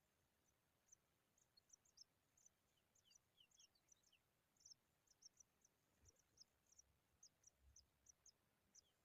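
Faint, high, thin chirps from pipit chicks, short and slightly falling, coming irregularly at about two to four a second, with a few lower chirps a little past the third second.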